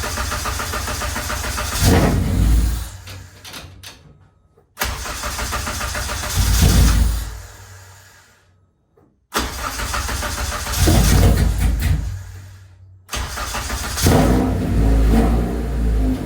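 Car engine, the Civic's swapped Honda K24 four-cylinder, running and surging louder four times as it is given gas, each surge fading away. The sound cuts in abruptly after each short quiet gap.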